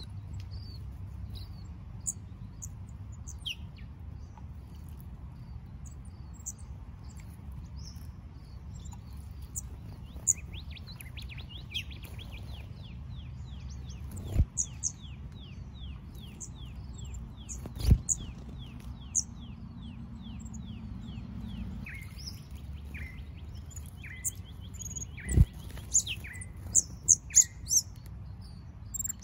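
Blue wrens calling: scattered high chirps, and a long rapid trill of falling notes, about three a second, that runs for some ten seconds in the middle. Three sharp knocks stand out as the loudest sounds, about halfway through and near the end.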